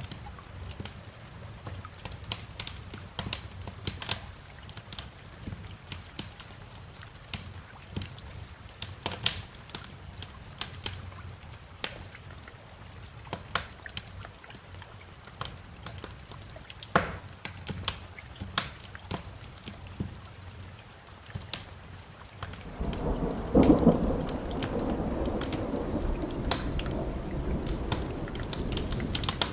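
Wood fire crackling with scattered sharp pops over steady rain. About three-quarters of the way in, a roll of thunder comes in. It peaks soon after and keeps rumbling to the end.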